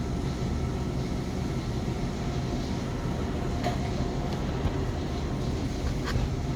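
Steady low rumble and hum of boiler-room machinery running, with a couple of faint clicks.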